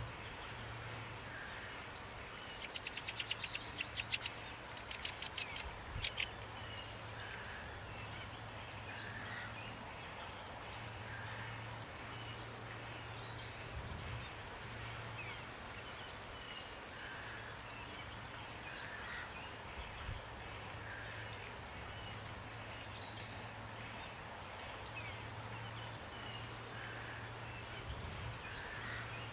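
Several small birds singing with short high chirps and quick falling notes, with a rapid trill a few seconds in, over the steady hiss of rain. A faint low hum comes and goes underneath.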